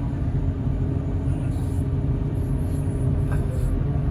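A large engine running steadily at idle: a constant low rumble with a faint steady hum above it.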